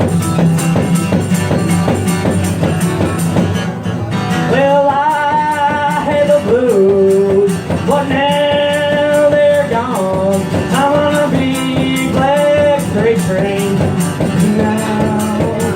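Live blues band playing an instrumental break between verses, with a steady rhythm underneath. A lead melody line in long, held, wavering phrases comes in about four and a half seconds in.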